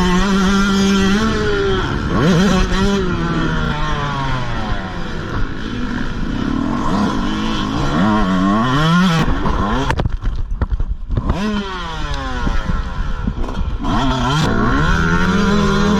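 Motocross dirt bike engine revving up and down as it races around the track, its pitch repeatedly climbing and falling through the gears. About ten seconds in, the engine sound drops off and turns choppy for a second or so before the revving picks up again.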